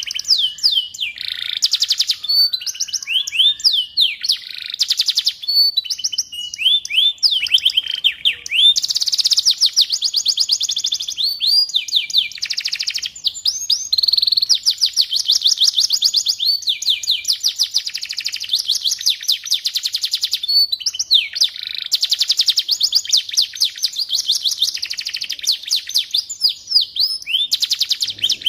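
Domestic canary singing continuously: long rolling trills of rapid, high repeated notes and quick sweeping phrases, one after another with only brief pauses.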